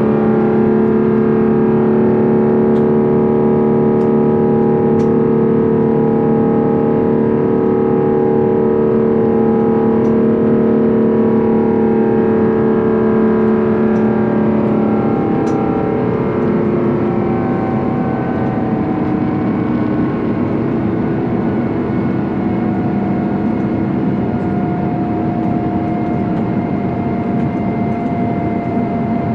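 Airbus A350-900's Rolls-Royce Trent XWB engines at high climb thrust, heard inside the cabin as a loud roar with strong steady droning tones. The description calls this engine noise extremely loud and distracting. About halfway through, the thrust is pulled back: the tones shift and fade and the roar eases a little.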